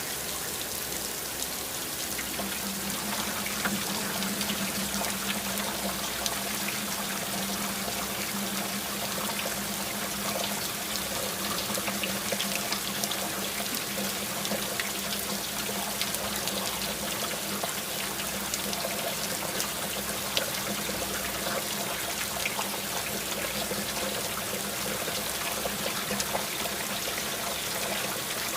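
Steady rain falling, with many small drop ticks and trickling water running without a break.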